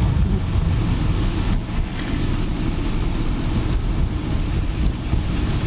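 Steady low rumble of a car's engine and tyres heard from inside the cabin while driving on snowy roads, with a couple of faint knocks.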